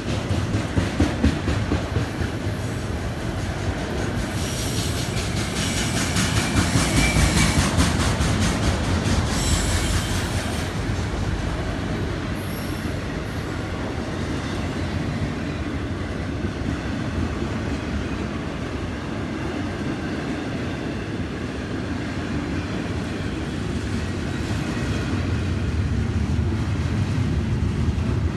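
Freight cars of a Florida East Coast Railway train rolling past, steel wheels clattering on the rails. A high wheel squeal rises from about four seconds in and fades by about ten seconds.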